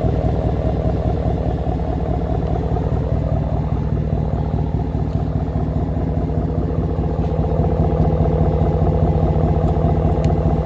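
Dodge Ram's Hemi V8 with a Y-pipe muffler delete, which is basically straight pipe, idling with a steady, loud exhaust sound.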